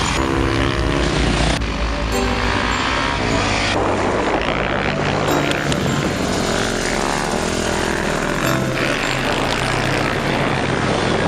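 Supermoto motorcycle engines revving up and down as the bikes ride through corners, with a shift in the sound every second or two; music runs underneath.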